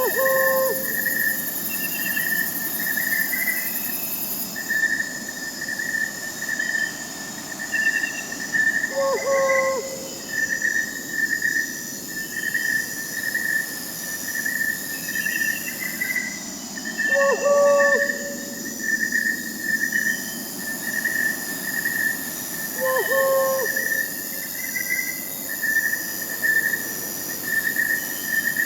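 Crickets chirping in a steady pulsing chorus, with an owl's short hooting call repeating four times, several seconds apart.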